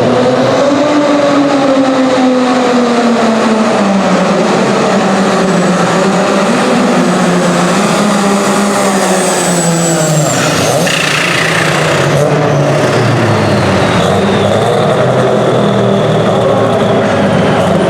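Light-limited super stock pulling tractor's turbocharged diesel engine running hard and loud under load, its pitch sinking slowly through the run, with a high turbo whistle over it.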